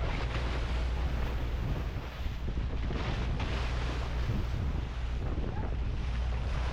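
Wind buffeting the microphone over the steady low hum of a boat's engine and the wash of sea water. The wind noise rises and falls in gusts.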